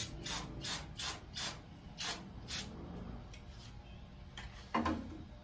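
Aerosol can of brake cleaner sprayed in short hissing bursts, about two a second, for the first two and a half seconds, then a few weaker bursts. A single short, fuller sound comes near the end.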